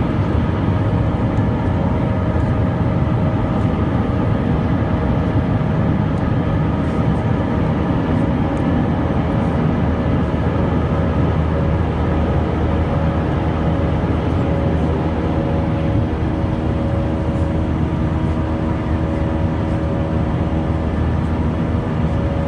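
Steady jet engine and airflow noise inside an Airbus A320 cabin during the climb after takeoff: a loud, even rumble with a steady multi-tone hum from the engines over it.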